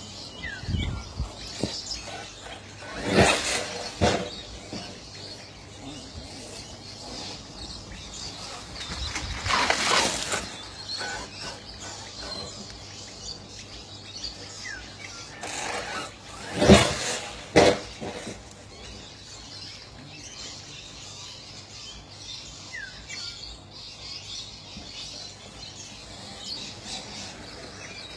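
Outdoor ambience with birds chirping now and then, broken by three loud rushing bursts of noise, about a second each, spread through the stretch; the last is the loudest and deepest.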